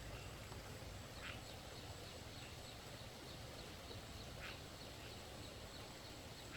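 Three short, faint bird calls, each a quick falling note, spaced a few seconds apart over a steady hiss of outdoor background noise, with a faint rapid ticking high above.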